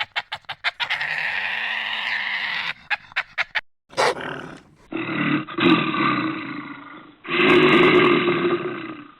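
Animal calls and growls in several short clips cut one after another: a rapid run of clicks, a longer rough call, a brief sweep about four seconds in, then two longer growling calls.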